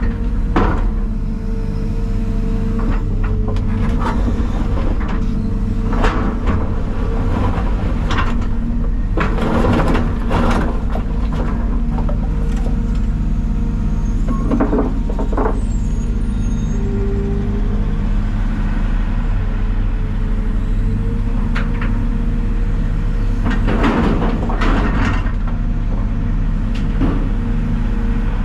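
Heavy diesel truck engine running steadily, with scattered rattles and knocks over it.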